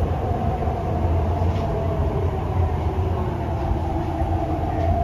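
Running noise of an MTR East Rail Line R-Train, a Hyundai Rotem electric multiple unit, heard inside the passenger car while it travels through a tunnel at speed: a steady low rumble of wheels on rails with a steady whine above it.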